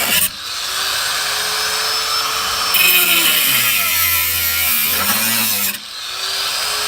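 Angle grinder with a cut-off wheel spinning up and cutting through sheet-metal factory seat mounts. Harsh grinding starts a few seconds in, and the motor's pitch sags as it bogs under the load. It is let off briefly, then spins up again near the end.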